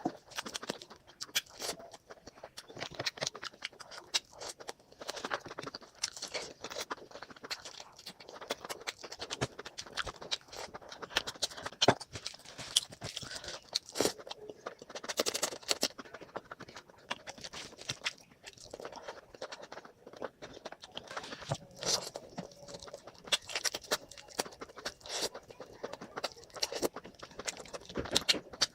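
Close-miked eating: wet chewing, smacking and crunching of curry with rice and meat, a dense run of irregular mouth clicks and smacks.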